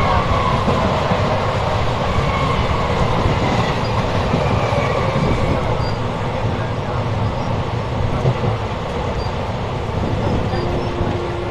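Steady running noise of a passenger train heard from its open door: wheels rattling over the rails with a faint squeal. In the first few seconds a suburban electric train passes close by on the next track, adding to the din.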